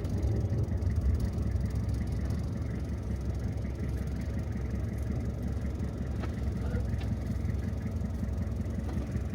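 Steady low engine and road rumble heard from inside a moving car, with a few faint ticks.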